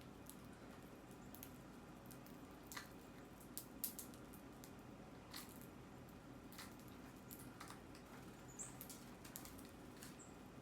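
Faint, scattered light taps and clicks of small birds pecking and hopping at a feeder, with a few brief high chirps in the second half, over a low steady hum.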